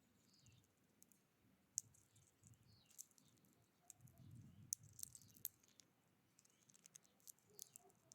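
Faint, irregular sharp clicks and taps, typical of small birds pecking and hopping on a feeder, with two brief soft high calls about half a second and three seconds in.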